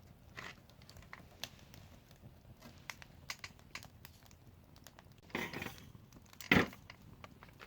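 Wood fire crackling with scattered small pops, then a brief rustle and one sharp knock about six and a half seconds in.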